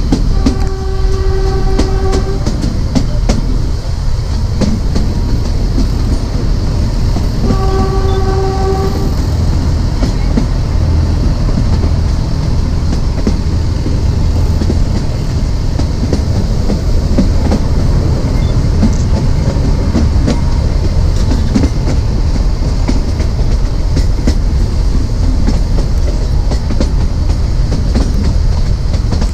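Narrow gauge train running, with a steady rumble and wheels clicking over the rail joints. The ZDM4A diesel locomotive's horn sounds twice, each blast about a second and a half long: once near the start and again about seven seconds in.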